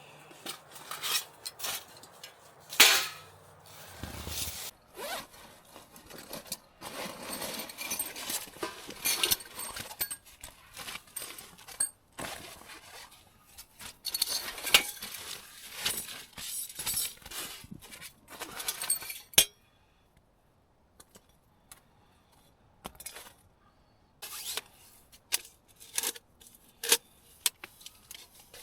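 Camp cookware and utensils being handled: irregular clinks, light knocks and scraping rustles, with a short near-quiet pause about twenty seconds in.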